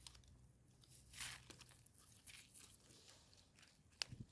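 Faint rustling and tearing as termite mushrooms are pulled from the soil by hand, with a short sharp click near the end.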